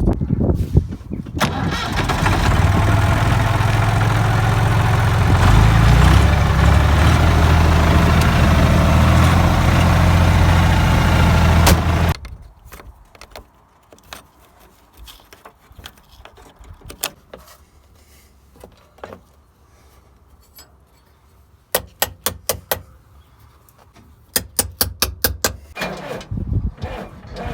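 An engine runs loudly and steadily for about ten seconds, its pitch shifting about halfway through, then cuts off suddenly. Scattered clicks follow, with two quick runs of rapid, evenly spaced clicking near the end.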